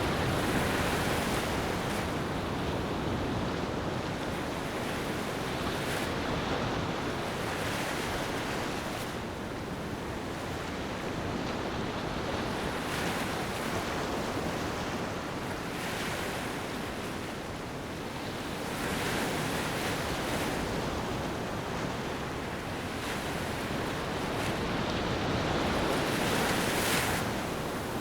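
Ocean waves washing onto a beach: a steady surf hiss that swells each time a wave breaks, every few seconds.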